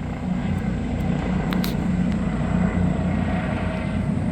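Helicopter engine and rotor drone overhead: a steady low drone.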